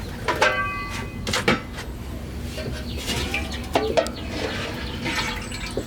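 Chickens clucking, with several sharp knocks and clicks among the calls.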